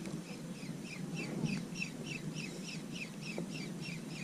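A bird calling a rapid, even series of short, high, downward-slurred notes, about three a second.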